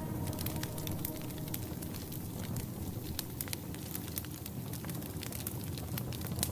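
Campfire crackling: a dense, irregular scatter of sharp pops and snaps over the low rush of burning wood.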